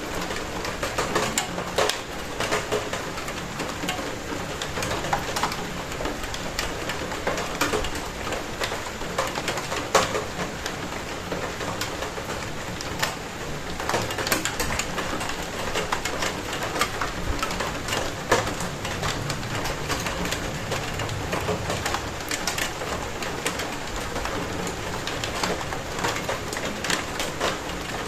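Steady rain with many irregular drops striking a hard surface, each a sharp tap, a few much louder than the rest.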